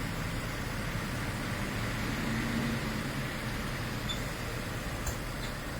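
Steady running of a vehicle engine at idle: an even low hum with no distinct events.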